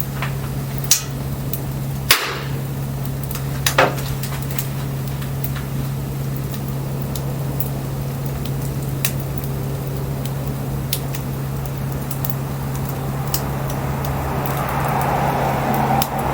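Burning firewood crackling with scattered sharp pops, the loudest about one, two and four seconds in, over a steady low drone. A soft hiss swells near the end.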